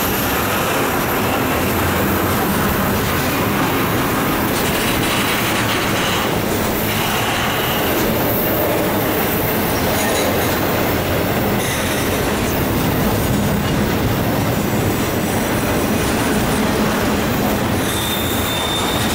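Double-stack intermodal well cars of a freight train rolling steadily past: a continuous rumble and rattle of steel wheels on the rails, with faint high wheel squeals now and then.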